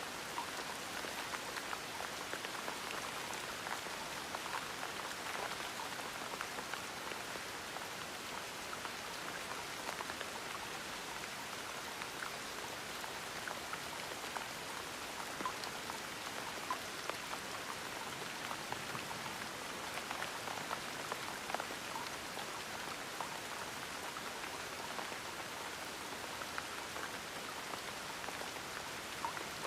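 Steady gentle rain falling, with close raindrops pattering on a surface as many small scattered ticks over an even hiss.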